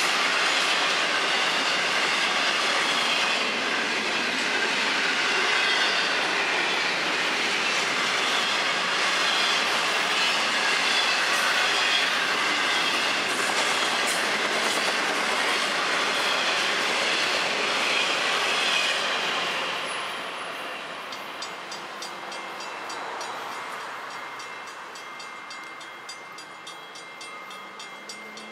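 Florida East Coast intermodal freight train's loaded flatcars rolling past, steel wheels clattering over the rail joints with some wheel squeal. The last car goes by about two-thirds of the way through and the rolling sound fades. A rapid, evenly repeating ringing of the grade-crossing bell is left.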